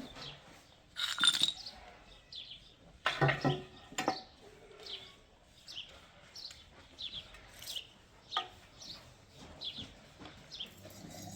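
A small bird chirping over and over, short high falling chirps about twice a second. A few louder knocks and clatters sound in the first four seconds.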